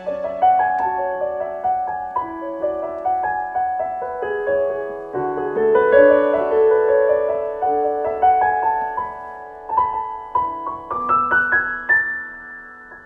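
Piano playing a slow, gentle passage of overlapping broken chords, each note struck and left to ring, with a short run of rising notes near the end.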